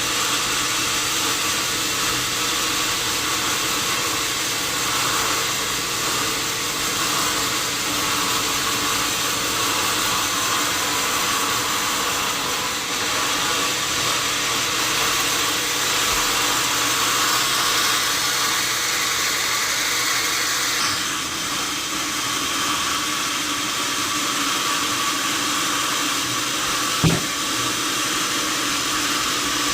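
Sawmill saw machinery running steadily: a constant hiss over a low hum, with a single sharp knock near the end.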